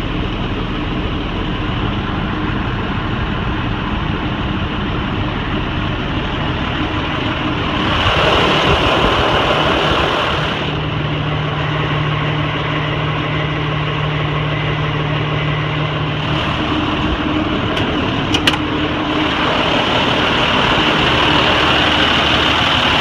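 1999 Sterling single-axle truck's diesel engine running steadily. It gets louder for about two seconds near the start, and there are a couple of sharp clicks later on.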